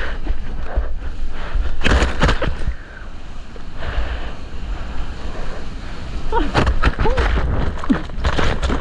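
Wind and sea water rushing over an action camera's microphone in the surf, a steady low rumble with sharper splashes about two seconds in and again from about six and a half seconds.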